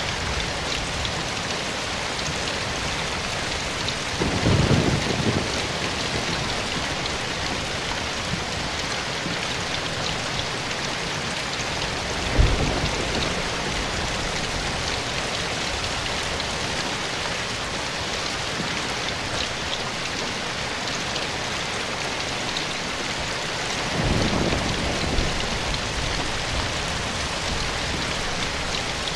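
Steady rain falling on leaves and ground, an even hiss throughout. Low rumbles of distant thunder rise out of it three times: about four seconds in, a short sharp jolt near the middle, and another roll near the end.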